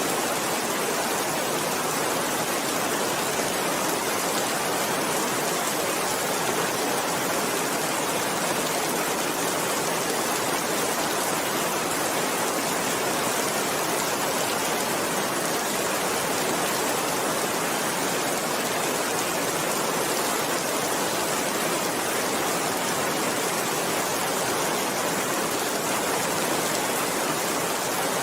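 Steady rain falling, an even unbroken wash of noise that does not change.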